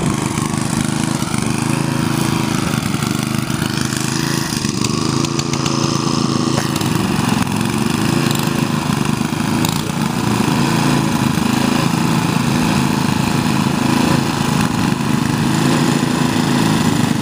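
Ariens lawn tractor's 8 hp Tecumseh engine running steadily, its pitch wavering a little.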